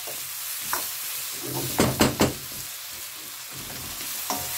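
Baby mushrooms frying in garlic butter and oil in a wok, sizzling steadily while a spatula stirs them. A few sharp clacks of the spatula against the wok, a quick cluster of them about two seconds in.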